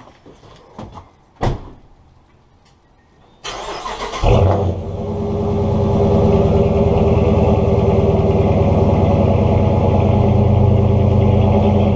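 A few knocks, then a starter cranks a Dodge Charger Pursuit's 5.7-litre Hemi V8 about three and a half seconds in; it catches with a loud rev flare and settles into a steady idle through an SLP Loudmouth exhaust.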